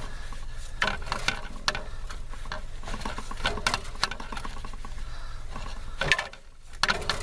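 Tubing cutter being turned around a refrigerant pipe: a string of irregular clicks and scrapes as the cutting wheel works its way into the pipe wall.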